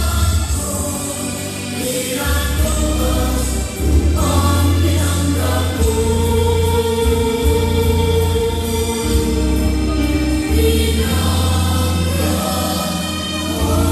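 Background music with a choir singing long held notes over a steady low bass.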